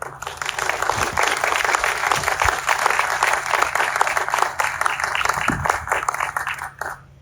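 Audience applauding: dense clapping that starts all at once and cuts off suddenly near the end.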